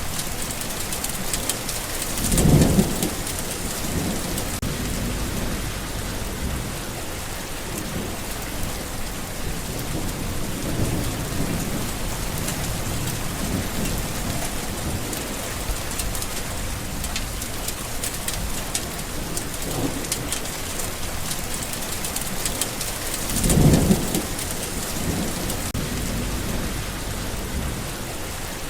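Steady heavy rain falling, with rolls of thunder rumbling underneath; two louder thunder rumbles come about two seconds in and again about five seconds before the end.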